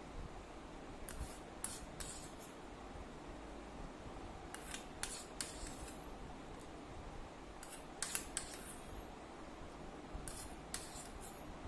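Close-up eating sounds: chewing and mouth clicks, in small groups of three or so short, crisp clicks every few seconds.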